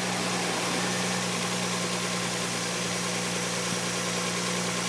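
Ford Probe V6 engine idling steadily.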